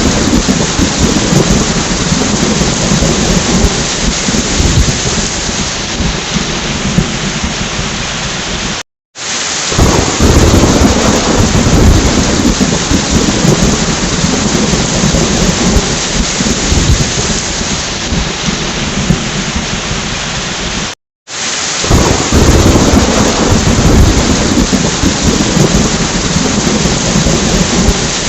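Heavy rain falling steadily with low, rolling thunder. The rumble is strongest just after each of two brief complete drop-outs, about twelve seconds apart, and eases off between them.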